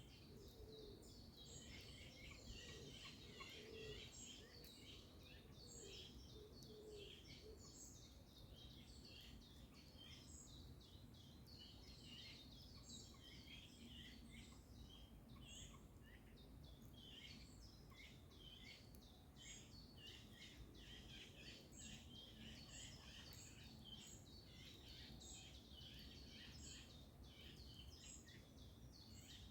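Faint morning chorus of songbirds: many short, high chirps and trills overlapping without a break, over a soft low background hum.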